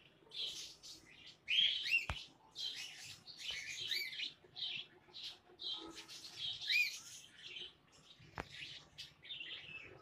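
Birds chirping over and over in short, arching calls, several to a second. There is a sharp click about two seconds in and another late on.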